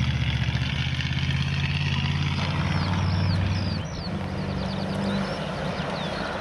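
Vintage rally cars' engines running as they drive a gravel stage: one car's engine hums steadily, then about four seconds in a second car's engine takes over at a higher pitch.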